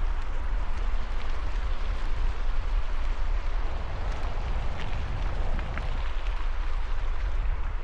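Wind buffeting a helmet-mounted camera microphone during a bicycle ride: a steady, gusting low rumble under a rushing hiss.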